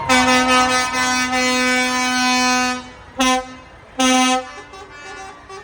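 A vehicle horn, likely on one of the tractors, sounds one long blast of about three seconds, then two short toots. A fainter, different-pitched horn sounds near the end.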